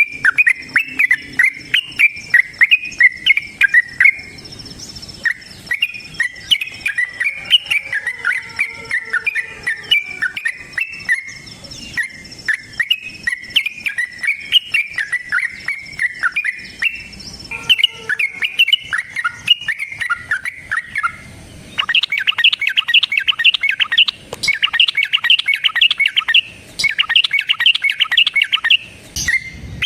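Sooty-headed bulbul (trucukan) singing a long, fast, chattering song of bubbly repeated notes, which turns into a denser, higher rapid trill about two-thirds of the way through. A faint steady high whine lies under the first half.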